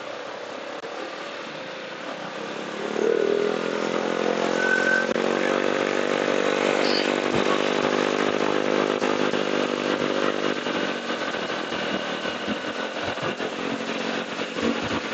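Motorcycle engine running while riding in traffic, over steady road noise; the engine note grows louder about three seconds in and holds for several seconds.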